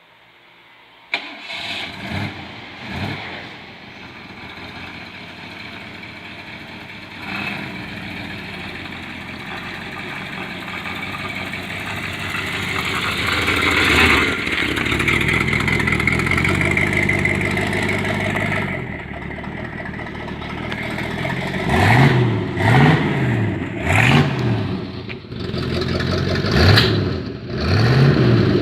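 De Tomaso Longchamp's 5.8-litre Ford 351 Cleveland V8 starting about a second in, blipping a couple of times as it catches, then idling, with the idle speed climbing over the next several seconds. From about 22 seconds in it is revved in a series of quick throttle blips.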